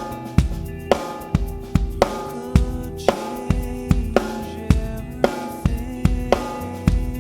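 Drum kit played in a steady groove along to a recorded song: bass drum and snare hits about twice a second with cymbals, over the song's sustained chords.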